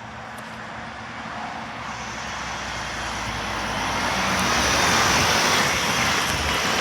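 Garbage truck drawing near, its engine and road noise growing steadily louder to a peak about five seconds in.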